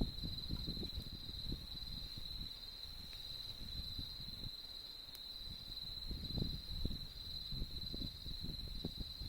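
Crickets or other autumn insects trilling steadily at one high pitch, with a faint regular pulse, over the low, uneven crackle of a campfire with an occasional sharp pop.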